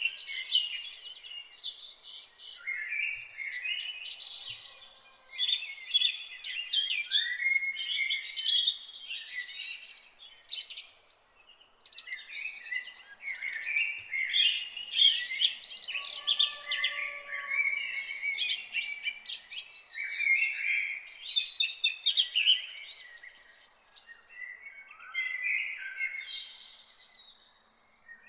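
A morning chorus of several songbirds singing and chirping at once: a dense, unbroken run of short, quick warbled phrases and high chirps.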